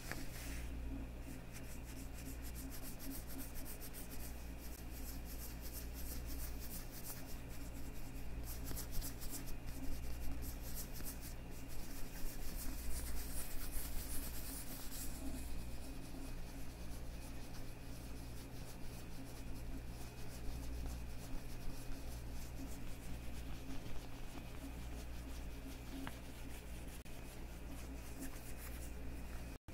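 Leather gloves on hands rubbing together, a continuous soft rubbing with fine creaks and crackles that gets busier around the middle.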